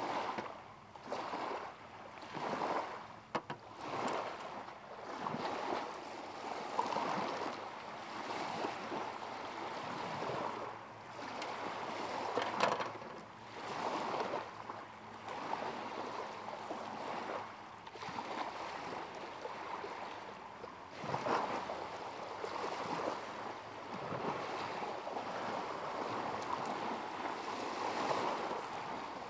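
Small waves lapping at the lakeshore, the water noise swelling and falling back every second or two.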